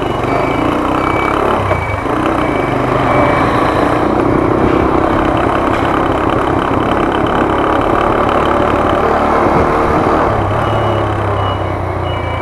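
Motor scooter engine running steadily. A high electronic beep repeats about twice a second at the start and again near the end.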